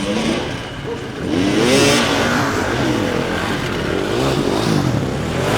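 Several enduro motorcycle engines revving, their pitch rising and falling with the throttle, overlapping one another. They get louder about a second and a half in.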